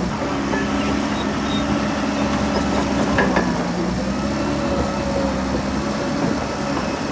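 Heavy diesel engine of earthmoving machinery running steadily, its pitch sagging briefly under load about halfway through, with a sharp metallic knock about three seconds in.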